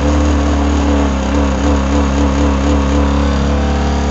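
Mitsubishi Montero's air-conditioning blower motor running with a loud, steady hum that has a slight regular throb to it: an abnormal blower noise, which the mechanic suspects comes from a worn or broken blower motor.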